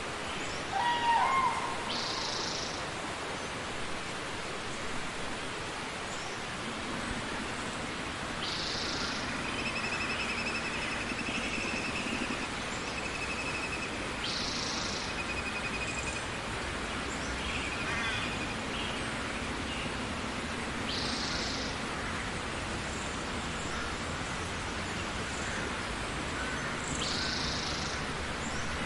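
Birds calling over a steady hiss: a short high call repeats about every six seconds, with a brief chirp about a second in and a trilling call in the middle.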